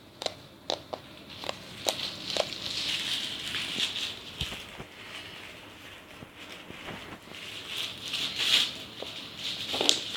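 Slime being squeezed and stretched by hand: a quick run of sharp little pops and clicks in the first couple of seconds, then softer squishing and crackling, with more pops near the end.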